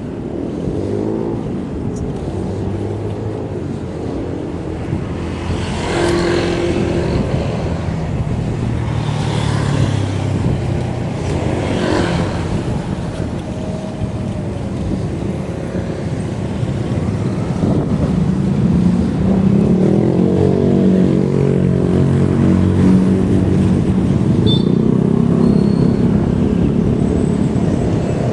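Road traffic heard from a moving bicycle: cars passing one after another, their engine notes rising and falling as they go by, over a steady rush of riding noise.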